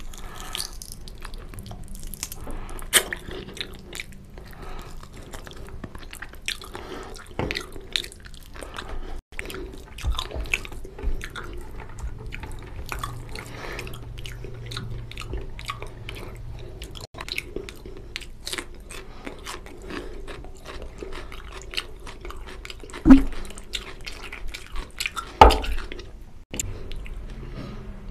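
Close-miked chewing of curry-soaked rice and mutton: wet smacking and clicking mouth sounds, with two much louder thumps near the end.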